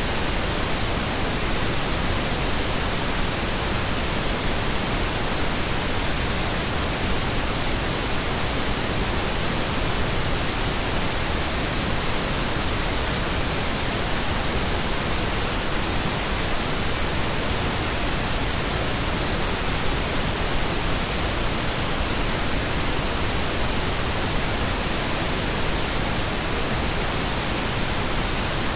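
Steady pink noise: an even, unchanging hiss spread across all pitches, for sleep masking.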